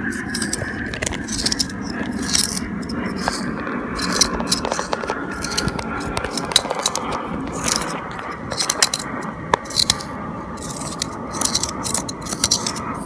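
Irregular scraping and scratching as the soft white pulp is scraped out of the inside of a fresh gourd to hollow it.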